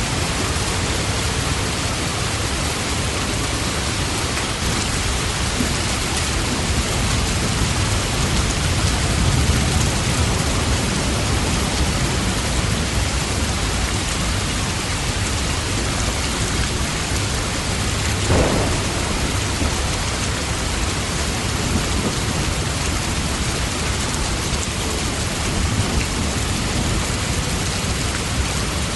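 Steady heavy rain falling, with a low rumble swelling about eight to eleven seconds in. A brief sharper sound stands out about eighteen seconds in.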